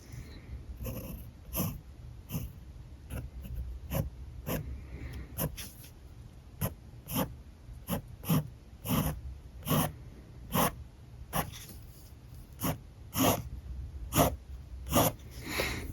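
Alcohol marker tip dragged across paper in short quick strokes, each stroke a brief squeaky scratch. The strokes come about one or two a second and grow louder and more regular a few seconds in.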